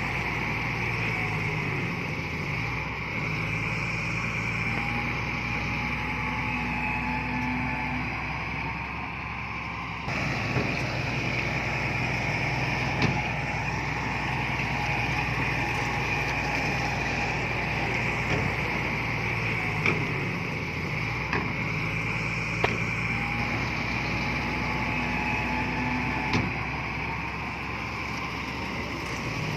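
Diesel engine of heavy earthmoving machinery running steadily, with a few sharp knocks. The sound shifts abruptly about ten seconds in.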